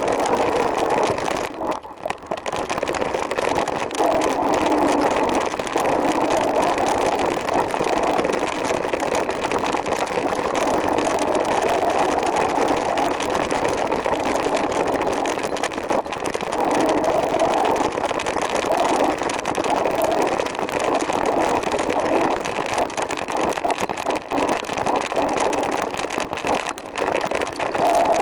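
Steady rushing road and wind noise from a moving trike, swelling and fading now and then, with a short dip about two seconds in.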